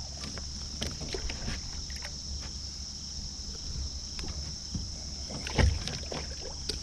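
Water splashing and small knocks against a kayak hull as a large catfish is let go and thrashes, with one loud thump about five and a half seconds in.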